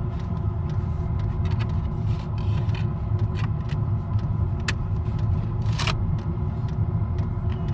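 A portable diesel air heater running steadily, a low rumble with a steady hum of several tones. A few light clicks sound over it, the sharpest two about five and six seconds in.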